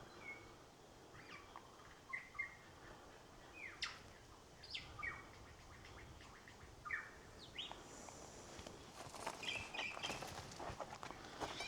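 Superb lyrebird singing its mimicked repertoire: a series of short, sharp calls sweeping down in pitch, a second or so apart. From about three-quarters of the way in, a quicker run of clicks and crackles comes in with the calls.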